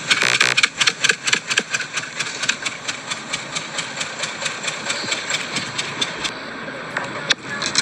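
Car engine idling with an abnormal exhaust noise: a rapid, regular ticking from the exhaust, about five a second, loudest at first and growing fainter after a few seconds.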